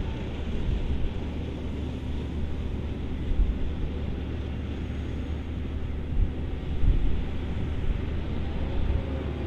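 John Deere 7230R tractor with an AVR Spirit 9200 potato harvester running steadily at work, a low, even engine hum under a wash of machine noise.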